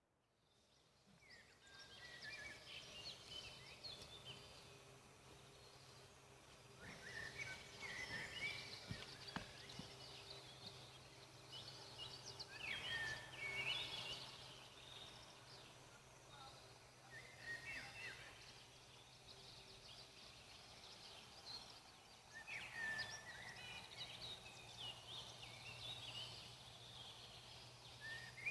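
Faint forest birdsong: groups of short chirps and trills from small birds come and go every few seconds over a faint steady low background, fading in during the first two seconds.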